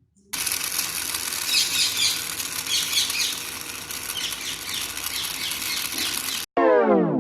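A noisy rushing sound with short chirps scattered through it, then, near the end, a tone that glides steeply down in pitch.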